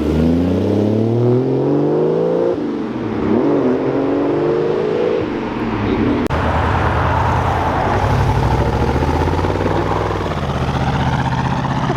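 Car engine revving up hard as the car accelerates away, with a gear change about two and a half seconds in and a second climb in pitch. About six seconds in the sound changes abruptly to an engine running at a steadier, lower pitch.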